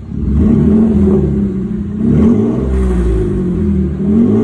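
Mitsubishi Pajero IV's 3.8-litre V6 exhaust, getting much louder just after the start and revved up and down about twice toward 3000 rpm, its pitch rising and falling. The jump in loudness fits the exhaust valve being opened into its loud mode.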